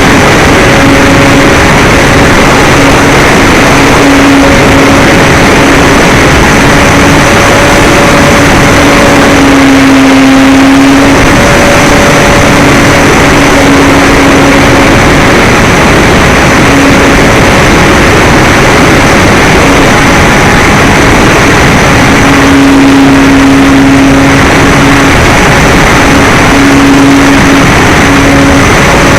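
Electric motor and propeller of a radio-controlled model plane in flight: a buzzing tone that fades in and out and shifts a little in pitch with the throttle, under heavy wind rush on the microphone.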